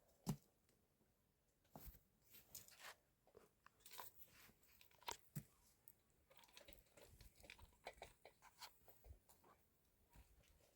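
Faint irregular crunching and clicking of someone biting and chewing food, with one sharper click just after the start.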